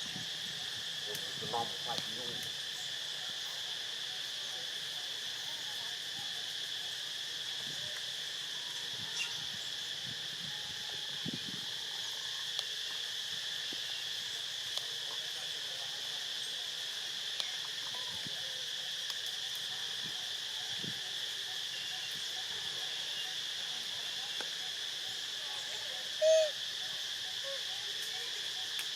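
A steady, high insect chorus drones continuously, with scattered faint clicks and rustles. About 26 seconds in, a short louder call cuts through, the loudest sound.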